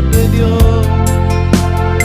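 Yamaha PSR-E473 keyboard playing an instrumental passage of a Christian song, with a steady drum-kit beat over bass and chords.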